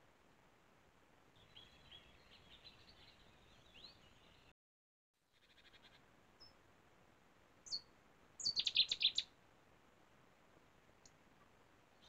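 Wild birds calling over a faint steady hiss. Faint chirps come first; about halfway through, after a short break of silence, a loud quick series of about seven sharp, high notes is heard.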